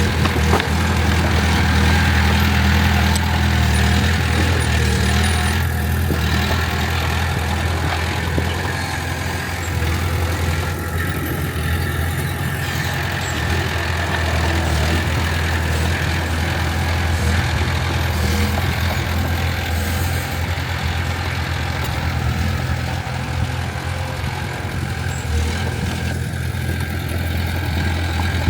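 Heavy diesel engine of earthmoving machinery running steadily at an even low pitch.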